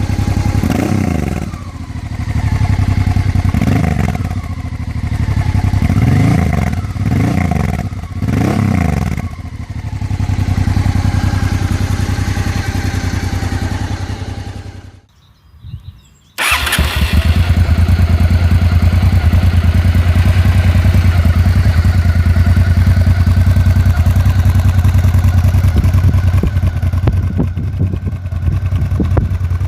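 Honda XRV 750 Africa Twin V-twin engine on an aftermarket or stock exhaust, blipped about six times from idle, then running steadily. After a brief silence it runs again, louder and steady.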